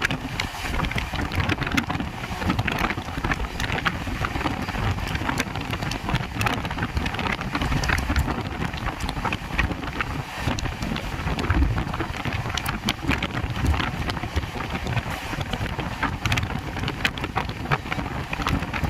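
Train running along the track: a steady rumble with a dense scatter of small clicks and rattles from wheels and carriage.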